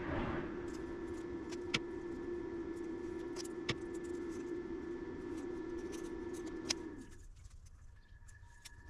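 A small electric device hums steadily with a low tone and fainter higher tones, then cuts off about seven seconds in. Three sharp clicks come through it.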